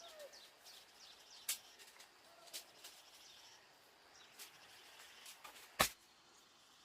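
Quiet outdoor ambience with faint bird chirps and a few sharp clicks or taps, the loudest click near the end.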